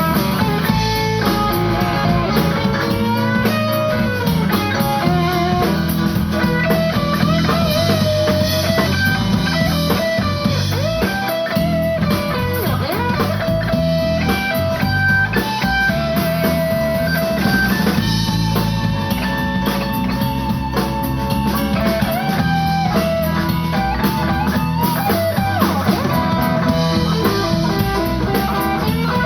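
Live blues band playing: electric guitar lines with bent notes over bass and drum kit.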